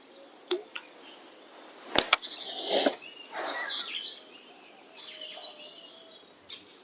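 Birds chirping, with a few sharp clicks near the start, a loud double click about two seconds in, and bouts of rustling after it.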